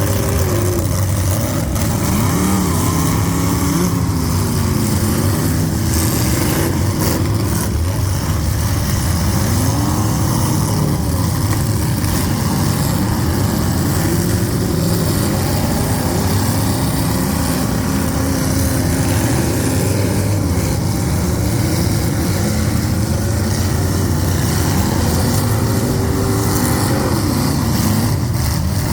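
Several full-size demolition derby cars' engines running hard together, their pitch repeatedly rising and falling as they rev up and down, with a few sharp knocks in the middle.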